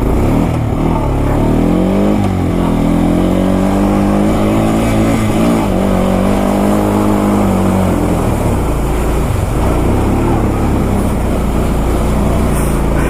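Honda Foreman ATV engine revving hard in first gear while pushing through a deep mud hole, labouring under the load so it can't hold its speed. The revs dip about two seconds in, hold steady, then turn rougher and noisier after about eight seconds.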